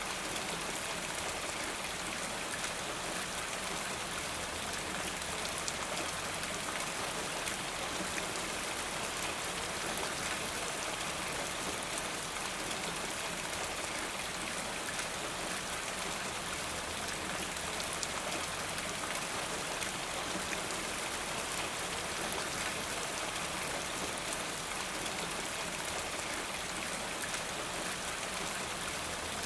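Steady rainfall, an even hiss of rain with fine drops pattering on a surface.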